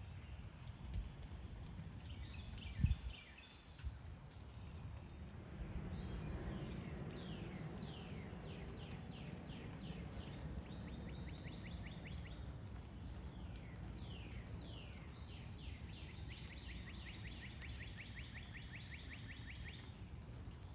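A backyard songbird singing runs of quick sliding notes that speed up into fast, even trills, twice, over a low outdoor rumble; a single dull thump comes about three seconds in.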